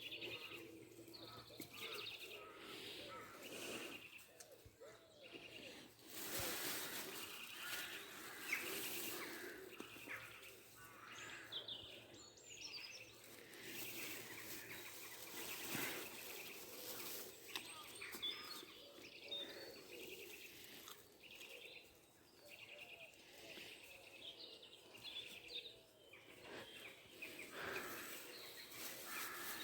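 Woodland birdsong: several small birds chirping and warbling on and off, with a few spells of soft rustling noise, the longest starting about six seconds in.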